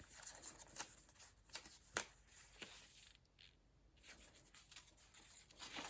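Faint rustling of paper pages being handled and turned in a handmade junk journal, with a few soft ticks and one sharper click about two seconds in.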